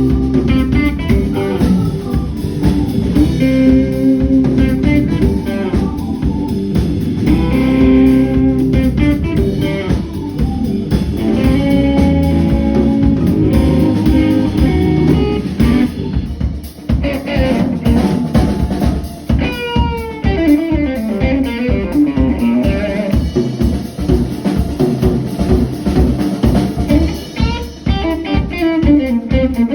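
A band playing with guitar and drum kit to a steady, driving beat, the music changing about seventeen seconds in.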